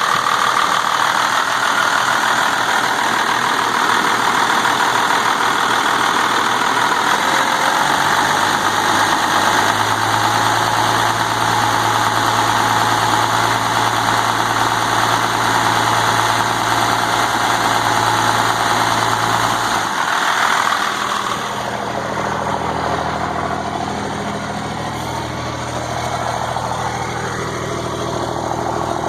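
12-valve Cummins diesel idling steadily with its diesel clatter after a cold start in freezing weather. Its low hum shifts and the level drops slightly about twenty seconds in.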